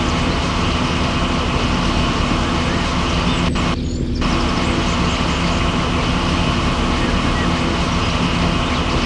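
Steady motor-vehicle engine sound with a constant low hum, the upper part of the sound thinning briefly about four seconds in.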